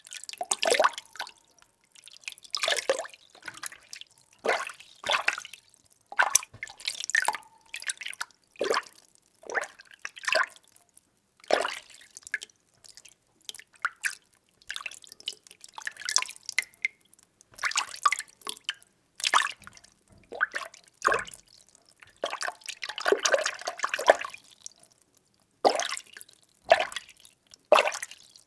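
Water being stirred, making a splashy sloshing stroke roughly once a second in an uneven rhythm.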